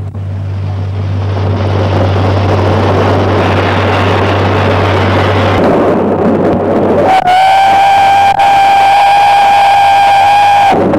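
A steady rushing noise from the steam train, then about seven seconds in a long, steady blast on a steam locomotive's whistle lasting about three and a half seconds, cutting off sharply.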